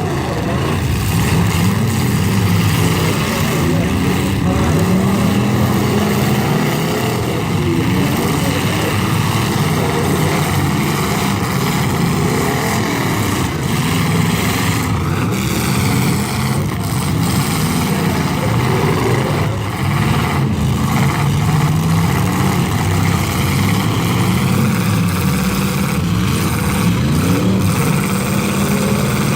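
Many stock car and pickup truck engines revving hard at once, their pitch rising and falling as they accelerate and back off, with a few sharp bangs of vehicles crashing into each other around the middle and near the end.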